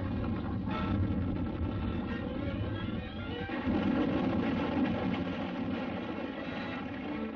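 Dramatic orchestral cartoon score playing over a heavy low rumble.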